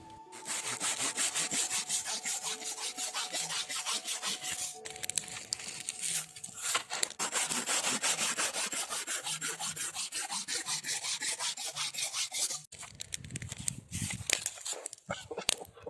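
A saw cutting through wood with quick, steady back-and-forth strokes, which stop about three-quarters of the way through, followed by lighter scraping and knocks.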